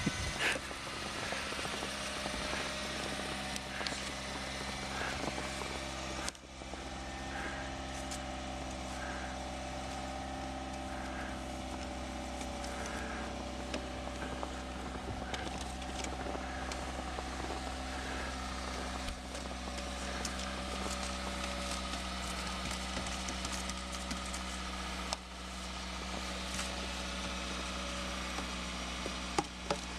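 Car engine idling with a steady hum while a snow brush swishes and scrapes snow off the car's windows in repeated strokes. A couple of sharp knocks come near the end.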